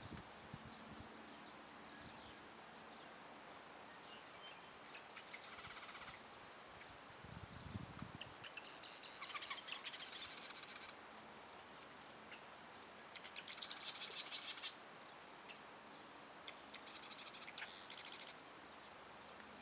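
Songbirds singing: four short buzzy, trilling phrases a few seconds apart, the loudest about fourteen seconds in. A brief low thump comes about seven and a half seconds in.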